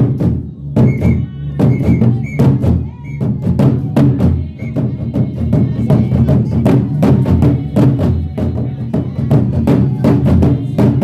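Traditional African music: drumming and sharp, quick rhythmic percussive strikes over layered singing voices.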